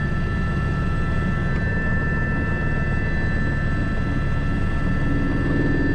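Airbus H125 single-engine helicopter in flight, heard from the cockpit: a steady rotor beat under a constant high turbine whine.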